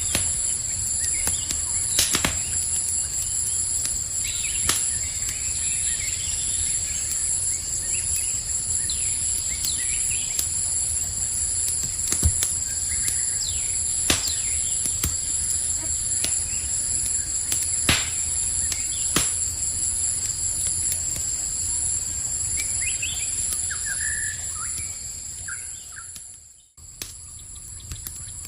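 Campfire crackling with occasional sharp pops, over a steady high chirring of night insects and a few short bird chirps. The sound fades out and briefly cuts out near the end, then returns quieter.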